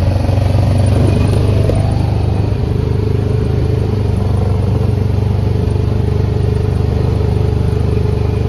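Deutz-Fahr tractor's diesel engine running steadily.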